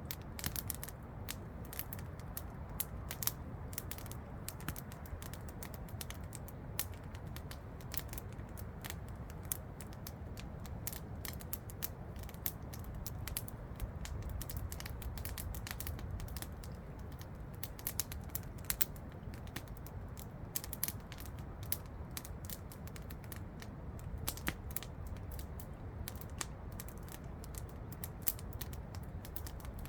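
Wood campfire crackling with irregular sharp pops and snaps, over the low steady rush of a waterfall.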